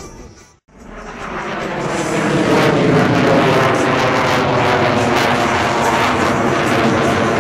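Jet noise from a Boeing F/A-18 Super Hornet's twin F414 turbofan engines during a display manoeuvre. The sound cuts out briefly about half a second in, then builds over the next two seconds and holds loud.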